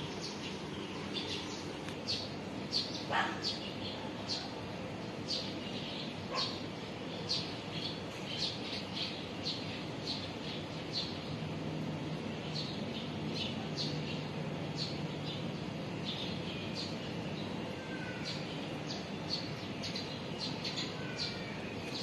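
Birds chirping: many short, high chirps in quick succession, thinning out near the end, over a steady background noise.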